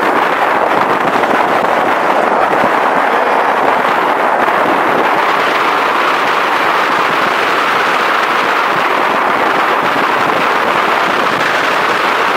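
Strong wind buffeting the microphone: a loud, steady rushing noise with a crackly edge.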